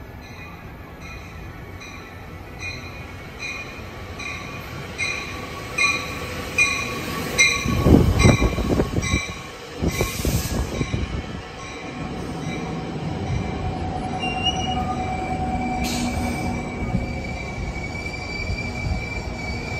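NJ Transit commuter train arriving at the platform. Its bell rings about once every 0.6 s as it approaches, then a loud low noise comes as the lead car rolls in about 8 s in. A short burst of air hiss follows near 10 s, then steady wheel and brake squeal tones as the train slows to a stop.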